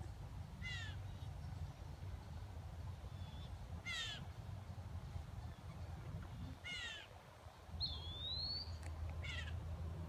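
A bird giving four short, harsh calls that slur downward, about three seconds apart, with a brief rising whistle near the end, over a steady low rumble.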